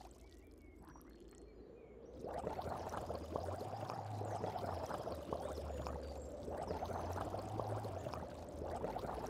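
Bubbling, gurgling water sound effect, a dense crackle of small pops over a low hum, growing louder about two seconds in.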